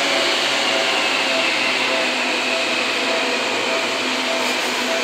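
Seibu 2000-series electric train pulling out and slowly gathering speed at a distance: a steady rushing noise with a faint, steady motor hum.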